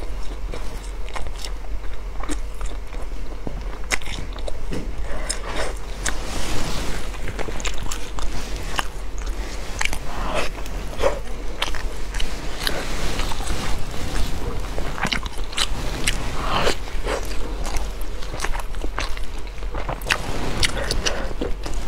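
Close-up biting and chewing of large pieces of glazed sticky rice, a dense, irregular run of short mouth clicks and chewing sounds.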